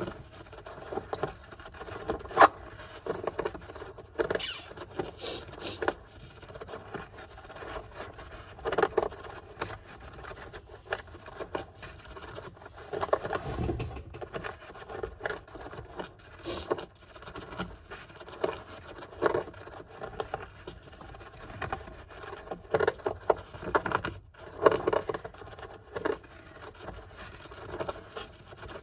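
Golden hamster scratching and digging in sand: a steady run of irregular light scrapes and patters, with a few sharper clicks.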